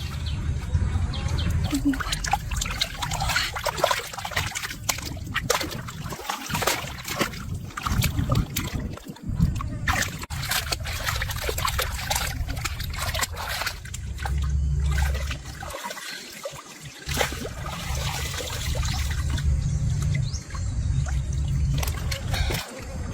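Water trickling and splashing, with many short clicks and knocks and a low rumble that comes and goes.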